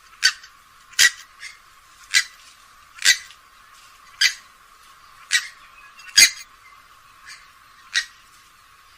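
Grey-headed swamphen calling: a series of short calls at roughly one a second, unevenly spaced and varying in loudness.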